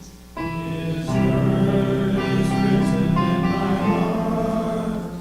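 Congregation singing a hymn with piano accompaniment. After a short break, a piano chord comes in and the voices join about a second in.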